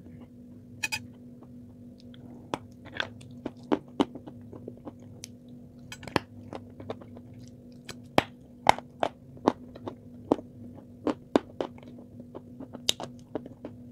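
Close-miked chewing of a chocolate-coated marshmallow: irregular sharp wet clicks and smacks of the mouth, several a second, over a steady low hum.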